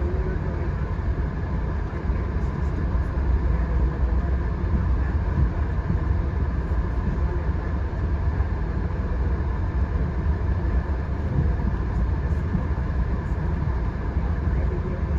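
Via Rail passenger train in motion: a steady low rumble that holds unchanged, with a few faint ticks up high.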